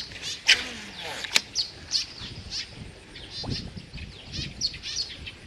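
Birds calling: short trilled chirps repeated about twice a second, with a single sharp click about a second and a half in.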